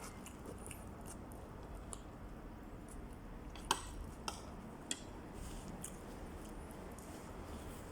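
Quiet close-up chewing, with three short sharp clicks around the middle over a low steady background hum.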